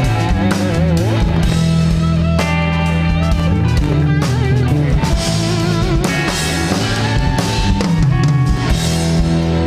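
Live rock band playing an instrumental passage between vocal lines: electric guitar lead with bends and vibrato over electric bass and a drum kit.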